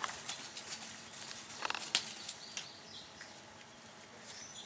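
Light, scattered taps and rustles from a young raccoon playing, with a few faint bird chirps near the end.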